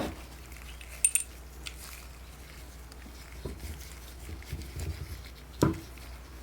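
Metal blowtorch parts being handled, clinking and knocking against each other and the bench. There is a knock at the start, a bright ringing clink about a second in, and a duller knock near the end, over a steady low hum.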